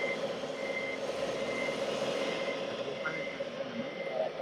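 Reversing beeper from a radio-controlled scale truck's sound module, one high beep about every 0.7 seconds, over a steady hum from the model machinery.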